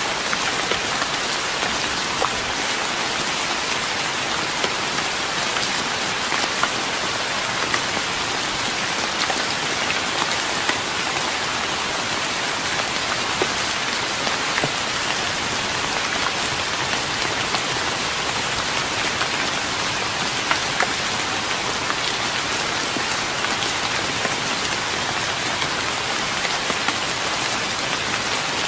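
Steady rain falling on a wooden deck, a dense even patter with many small individual drop ticks.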